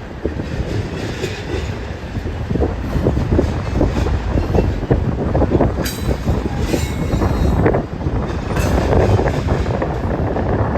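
BNSF train cars rolling past, the wheels clattering steadily over the rails, with two sharp metallic clanks partway through.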